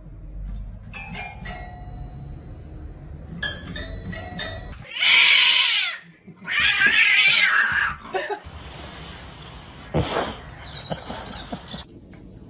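A cat pawing the keys of a toy piano, a few ringing notes about one and three and a half seconds in, then two loud, harsh cat cries, each about a second long.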